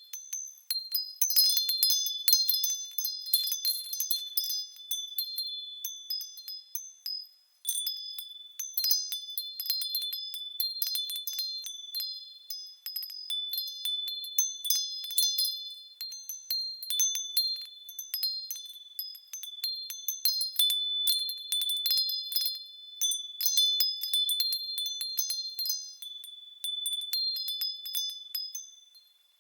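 Japanese fūrin wind chimes tinkling in the breeze, the clapper striking again and again and the chimes ringing high and bright. The ringing dies down briefly about seven seconds in, then picks up again.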